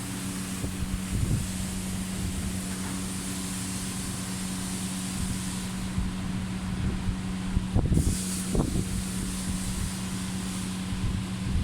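An engine running steadily with a constant hum, over low rumble and wind noise on the microphone, with a few low thumps about eight seconds in.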